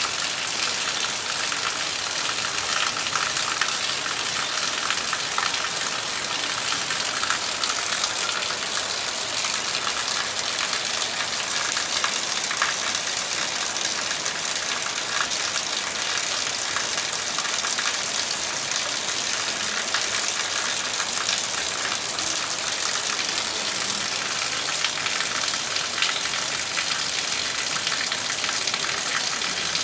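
Heavy rain falling steadily: an even hiss of downpour with scattered drops pattering on leaves and wet ground.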